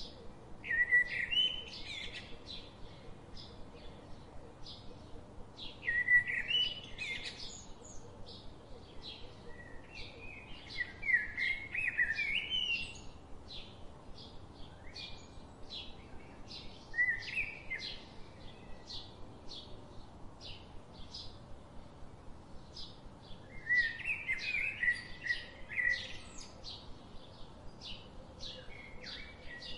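Birds singing: a steady run of short, high chirps, with louder warbling phrases every few seconds.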